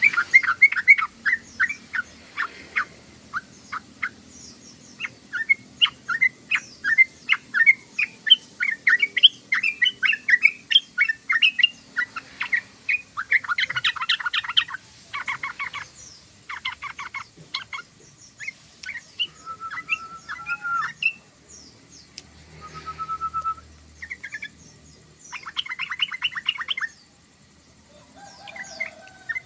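Yellow-vented bulbul (trucukan) chattering: quick runs of short chirps, broken by several fast rattling trills and a couple of short whistled notes.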